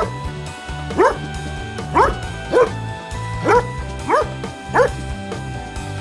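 A dog barking about seven times, short sharp barks each rising in pitch, spaced roughly half a second to a second apart, over background music.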